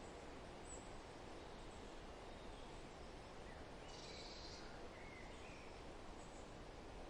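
Steady wind rustling through forest, with a few faint, brief bird chirps, the clearest about four seconds in.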